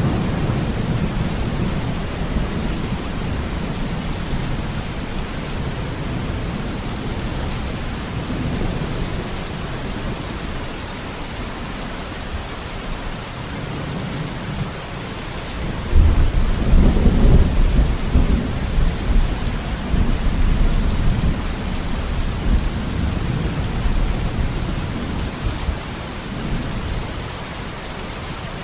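Steady heavy rain with rolling thunder. A low rumble of thunder fades in the first seconds, and a louder clap of thunder breaks in about halfway through and rumbles away over several seconds.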